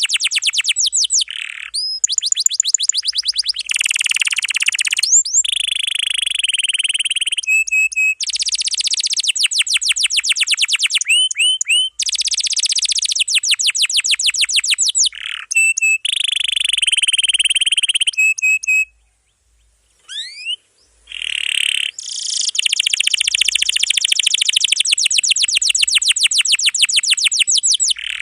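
Domestic canary singing long, rapid rolls of repeated high notes, broken by short pauses and a brief silence about two-thirds of the way through.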